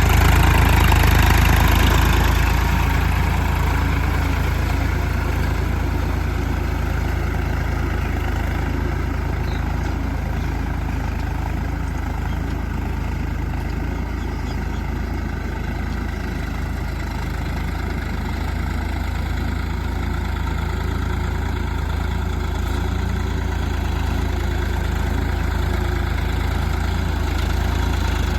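Tractor diesel engine running steadily, a little louder for the first two seconds or so before settling to an even level.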